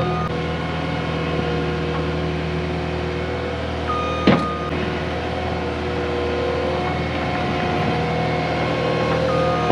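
Cat 259D compact track loader's diesel engine running steadily during dirt work, with one sharp clank about four seconds in.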